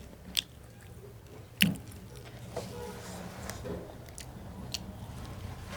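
Close-up mouth sounds of someone chewing chicken and rice: wet squishing with several sharp lip and tongue clicks, the loudest about a second and a half in.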